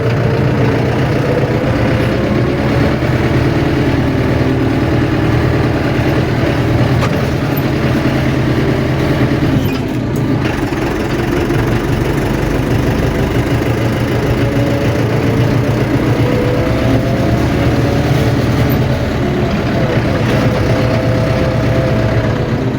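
Tractor engine running steadily on a test drive after a cylinder head repair, with a higher whine that drifts up and down in pitch and a brief dip about ten seconds in.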